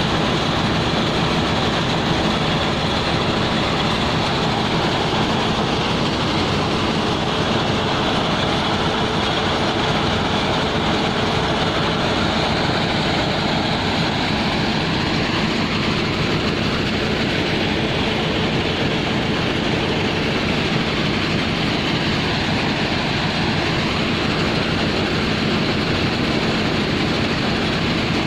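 Steady drone of heavy machinery with a dense rattling noise, from coal being unloaded from a ship into a barge.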